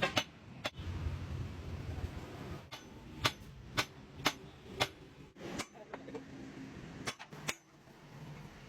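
Sharp metallic strikes, about ten in all, each ringing briefly, with a steady run of about two a second in the middle: metal being struck during a mechanical repair.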